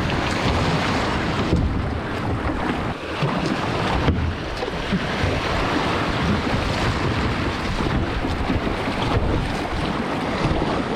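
Steady rushing of whitewater as a kayak runs river rapids, with wind buffeting the microphone.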